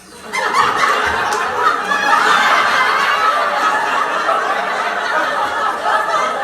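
A group of people laughing and chuckling together, many voices overlapping. It starts abruptly about a third of a second in, right after a brief silence.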